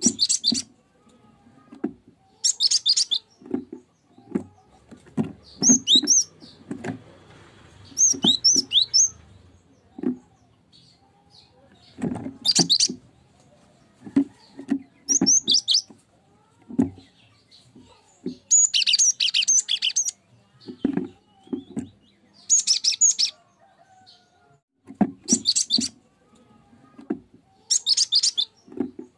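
Cinereous tit (gelatik batu) calling and singing in short bursts of high, sharp chirping notes, a phrase every couple of seconds, with soft low knocks in between.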